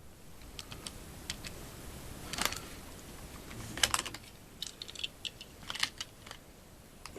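Light, irregular clicks and taps of small hard plastic pieces being handled, with two louder clacks about two and a half and four seconds in.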